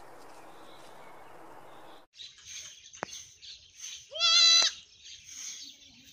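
A steady hiss of background noise stops abruptly about two seconds in. It gives way to faint high chirping, a single click, and then one loud, wavering goat bleat about half a second long.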